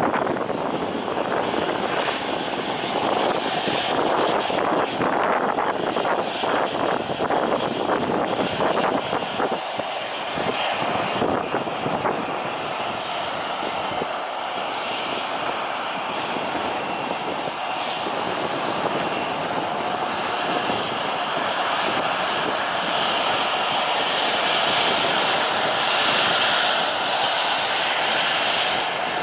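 Airliner engines running loud and steady as a plane passes near the runway, a higher whine building and peaking near the end.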